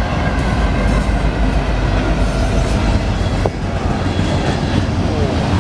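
A train passing close by at speed, its wheels on the rails making a steady, loud rumble.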